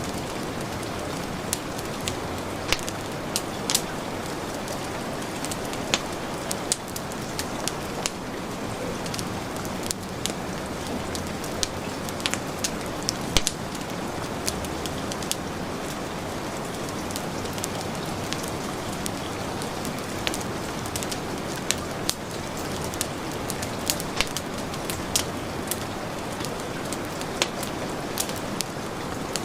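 Steady heavy rain hiss with a wood fire crackling over it, sharp irregular pops and snaps every second or so.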